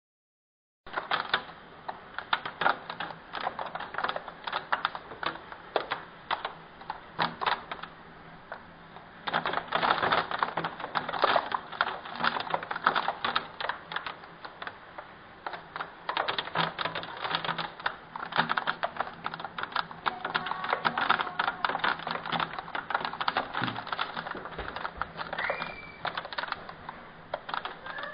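Hailstones up to 3 cm across clattering down in a dense, irregular patter of sharp hits, heavier from about nine seconds in.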